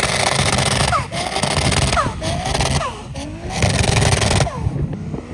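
Big-turbo Toyota Supra MK4's 2JZ inline-six revving hard in repeated surges while drifting, with short throttle lifts about three and five seconds in. The open screamer pipe adds a loud rushing hiss, with sharp cracks from the antilag.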